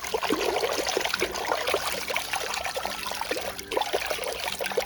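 Water pouring and trickling over a muddy toy bull as it is washed, a continuous bubbly splashing.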